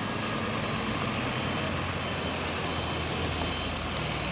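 Heavy diesel truck engine running steadily, with a low hum.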